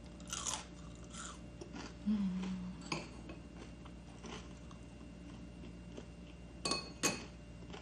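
Crunchy Korean spicy garlic fried chicken being bitten and chewed close to the microphone: a few sharp crunches, the clearest about three seconds in and twice near the end, with a short low hum a little after two seconds.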